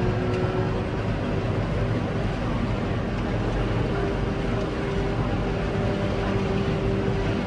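Tractor and Claas Jaguar 860 forage harvester running steadily while chopping maize into a trailer: a constant, even engine drone with a humming tone through it.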